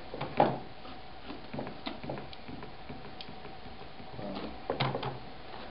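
Clicks and light knocks of RED ONE camera parts being handled and fitted together. The sharpest click comes about half a second in, with a few small ticks after it and a short cluster of knocks near the end.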